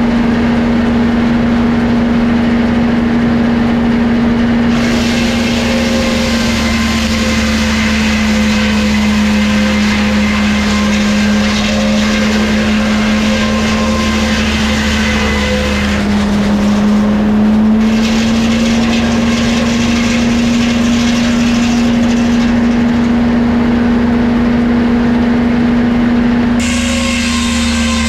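Powered wood saw running with a steady hum, cutting lumber in two long passes, from about 5 s and again from about 18 s; the hum sags briefly between them.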